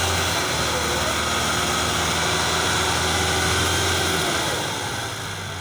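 Tractor engine running steadily with a deep low drone, dying away a little near the end.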